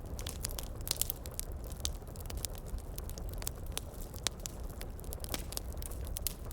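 Wood fire crackling, with irregular sharp pops several times a second over a steady low rumble of heavy rain.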